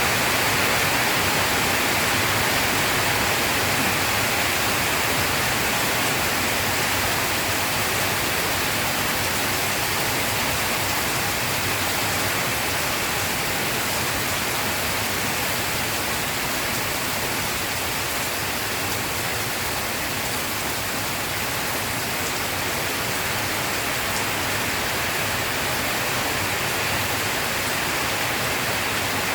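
Steady rain falling, a dense even hiss with no thunder or separate drops standing out.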